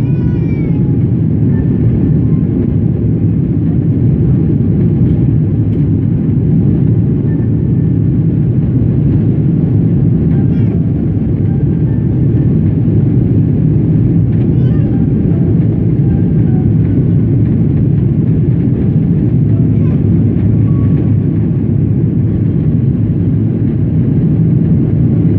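Boeing 777 jet engines and airflow at takeoff, heard inside the passenger cabin as a loud, steady low rumble. A few faint, brief high-pitched sounds rise over it now and then.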